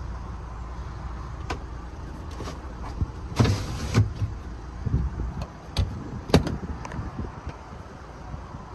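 Doors and latches of a VW California campervan being handled: a few sharp clicks and knocks, and a brief sliding rush about three and a half seconds in, over a low steady rumble.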